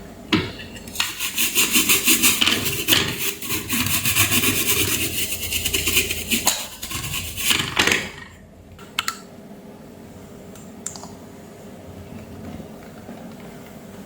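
Rapid scraping strokes for about seven seconds, stopping about eight seconds in, then a few light clicks.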